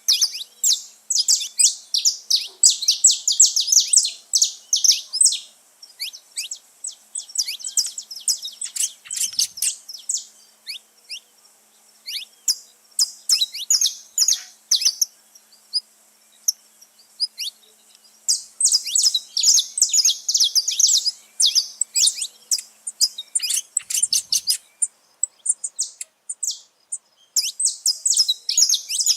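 A flock of saffron finches singing together: many quick, high chirps overlapping, dense for the first few seconds, thinner through the middle, then dense again in the second half and near the end.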